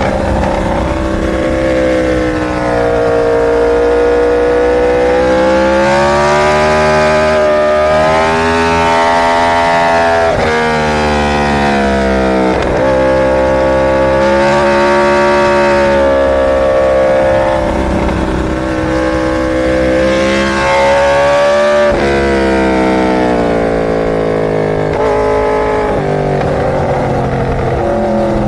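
Inline-four superbike engine (Yamaha R1 or BMW S1000RR) running hard, its pitch climbing and then dropping sharply at gear changes several times, with steadier stretches between.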